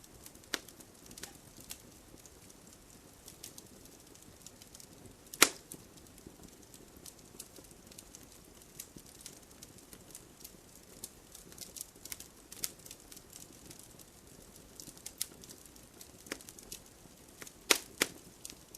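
Wood fire burning in a fireplace, crackling with irregular sharp pops over a low hiss. One loud pop comes about five seconds in and two more near the end.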